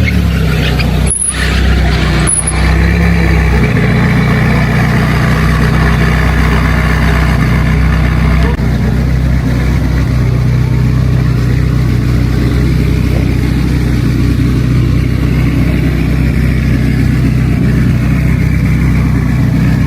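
A motor vehicle's engine running loud and steady close by, with a low hum and the noise of street traffic.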